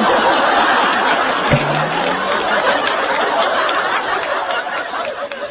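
Studio audience laughing and clapping in response to a punchline, easing off near the end.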